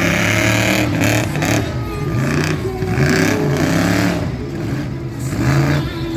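Monster truck engine revving hard again and again, its pitch climbing and dropping in quick, repeated blips.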